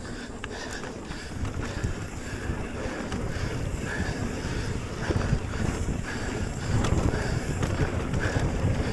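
Wind buffeting the microphone of a mountain biker's camera over the rumble of tyres rolling on a dirt trail, with a few clicks and knocks from the bike. It grows louder through the second half.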